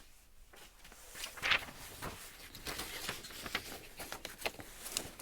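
Scattered light clicks and rubs of parts being handled, with a sharper knock about a second and a half in.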